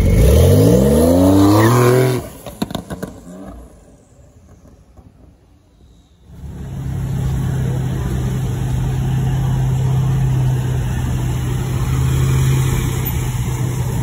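Sports car engine revving hard as the car accelerates, its pitch climbing steeply for about two seconds before it cuts off. After a few quieter seconds, a steady low engine hum with street noise sets in.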